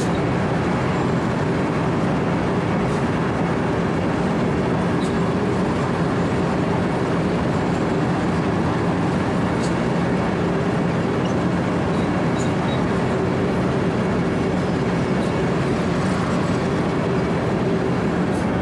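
Wirtgen W 120 CFi cold milling machine running at a steady pitch, its diesel engine humming under a continuous dense mechanical noise.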